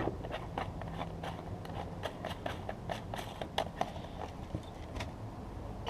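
Charcoal briquettes in a paint-can furnace catching alight after a dousing of methylated spirits, with irregular small crackles and ticks over a low steady background.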